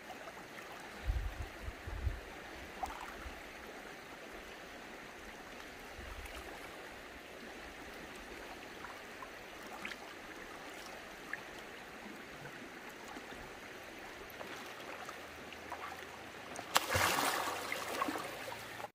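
Flowing water, a steady rushing noise, with a louder, harsher stretch of rushing or splashing lasting about two seconds near the end.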